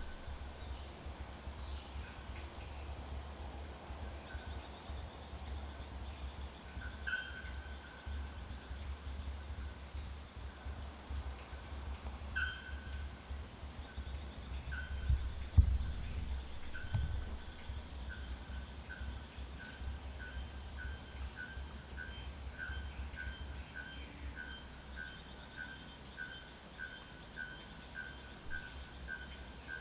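Forest ambience: a continuous high, pulsing insect trill, with short call notes repeating lower down that settle into an even run of about two a second in the second half. A low rumble runs underneath, with one soft knock about halfway.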